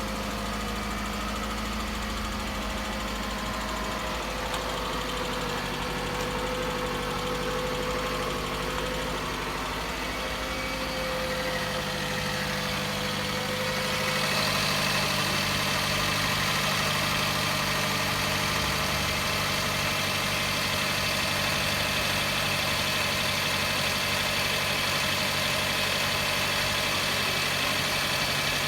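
Toyota Camry engine idling cold with a knock, the noise the owner is recording as a cold-engine knock. About halfway through the sound gets louder and brighter.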